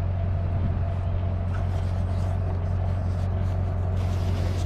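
An engine running at a steady idle: an even, low drone with no change in speed.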